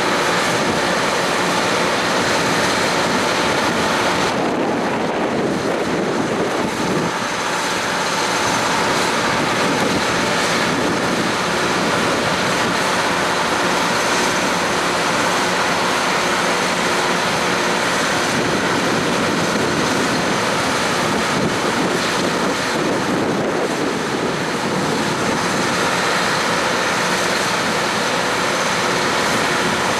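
Steady running noise of a vehicle in motion, even and continuous, with a faint steady hum under it and two brief softer stretches.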